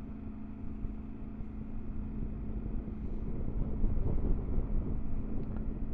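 Triumph Tiger 900 GT Pro's three-cylinder engine running steadily while riding, with wind rushing over the microphone; it grows a little louder about midway.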